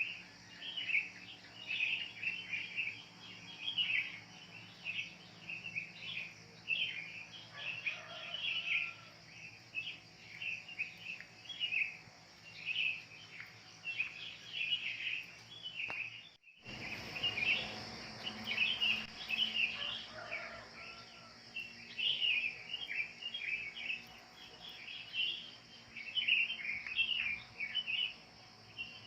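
Dense chorus of wild birds, many short overlapping chirps and calls, over a steady high hiss. The sound cuts out completely for a moment about sixteen seconds in, then the chorus carries on.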